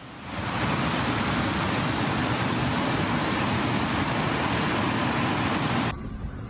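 Steady, even rushing noise of torrential water, cutting off abruptly near the end.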